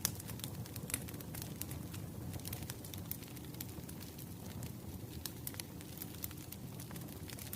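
Bonfire crackling: irregular sharp pops and snaps of burning wood over a steady low rumble of the flames.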